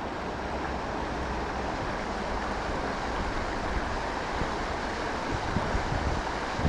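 Steady rushing of river water, an even hiss with a low rumble under it, and a few faint knocks near the end.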